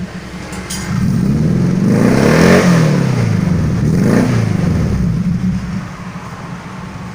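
Suzuki Jimny engine revved through its newly fitted full custom exhaust system, header back: the exhaust note rises to a peak, falls, climbs again in a second shorter rev, then drops back to a steady idle.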